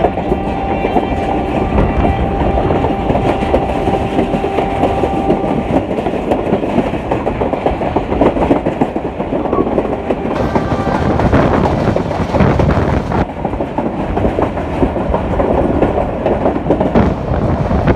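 Passenger train running along the track, heard from on board a coach: a steady rumble of wheels on rail with repeated clatter over the rail joints.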